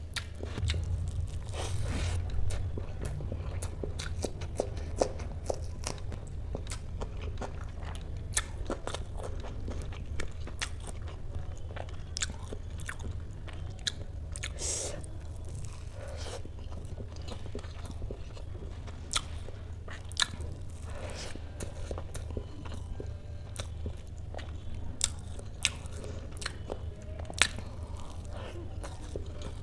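A person chewing and biting soft dhokla, with many irregular wet mouth clicks and smacks. A steady low hum runs underneath.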